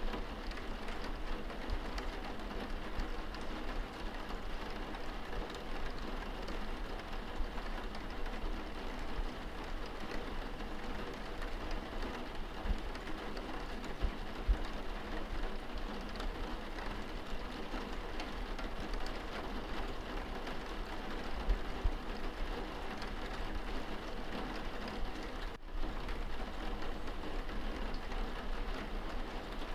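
Steady rain pattering on window glass, heard from indoors: a dense even patter with scattered individual drop ticks over a low rumble. The level dips briefly about three-quarters of the way through.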